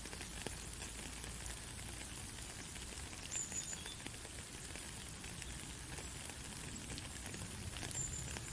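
Steady rain falling on a country road: an even hiss with scattered faint drop ticks. Two brief high chirps, about three seconds and eight seconds in.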